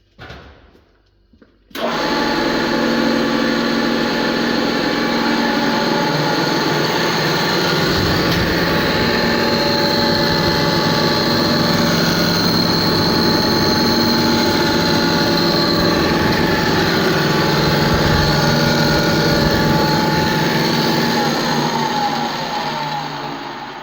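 Pullmax sheet-metal machine's electric motor and belt drive switched on about two seconds in, running steadily, then switched off near the end and running down with falling pitch. The running noise is what the owner suspects comes from worn or failing bearings in the drive-belt tensioner roller.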